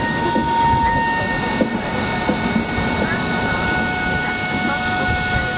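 Passenger train moving alongside the platform: a steady rumble with several high, steady whines, a lower whine joining partway through.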